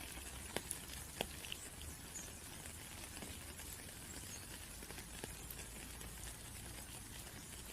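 Steady rain hiss with scattered close raindrops ticking, several sharper drops in the first second or so, and a few faint high chirps.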